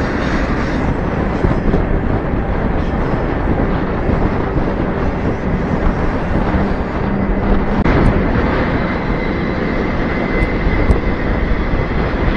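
Steady rumble and rush of a moving freight train, heard by someone riding aboard it, with wind on the microphone. About two-thirds through comes a single knock, followed by a faint steady high tone.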